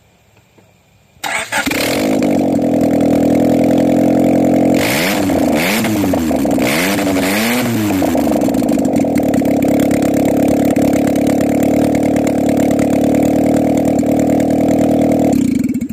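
Honda B16A VTEC 1.6-litre DOHC four-cylinder running with its exhaust manifold removed, so it exhausts straight out of the open head ports and is very loud. It starts about a second in, is revved three times in quick succession, rising and falling, then idles steadily until it is switched off near the end.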